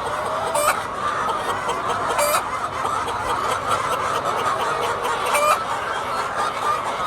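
A large flock of laying hens clucking and calling over one another in a steady, dense chatter.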